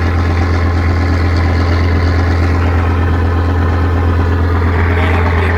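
Large engine running steadily at a constant speed, a loud low hum that does not change.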